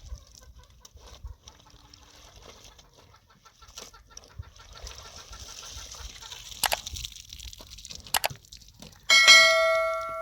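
A metal object struck once near the end, ringing on with a bell-like tone that fades over about a second and a half. Before it, scattered light clicks and knocks, with two sharper knocks.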